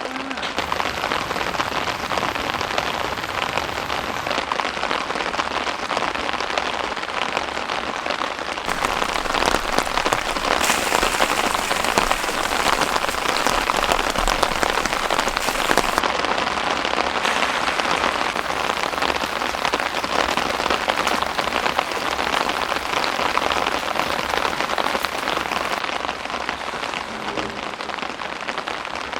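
Heavy rain falling steadily, growing louder about nine seconds in and easing a little near the end.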